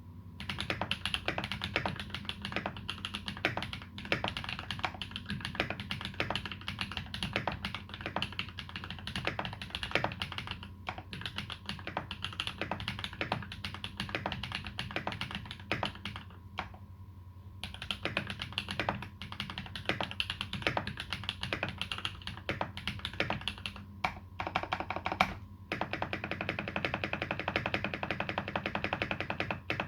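Typing on a TX EO87 custom mechanical keyboard with lubed Massdrop Holy Panda tactile switches and GMK Dolch keycaps: a continuous run of irregular keystroke clicks, with a brief pause a little past halfway.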